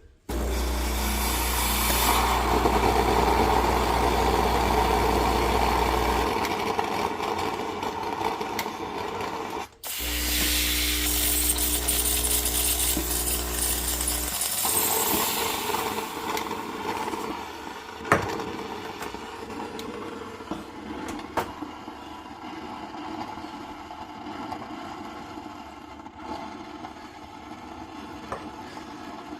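Home coffee machine running: a low buzzing hum with hissing, in two runs of about six and four seconds, then quieter hissing with a few light knocks.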